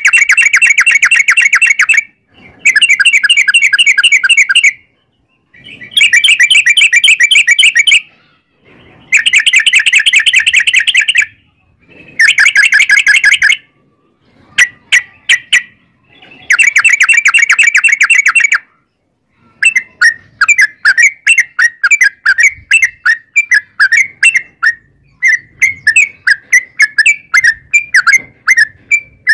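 Yellow-vented bulbul (trucukan) song: long, rapid, rolling trills of about two seconds each, repeated with short gaps. In the last third the trills give way to a quick run of separate short chirps, about three a second.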